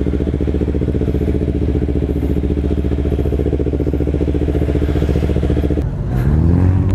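2013 Kawasaki Ninja 300's parallel-twin engine, fitted with an MGP Growler exhaust, idling steadily, then revving up with a rising pitch about six seconds in.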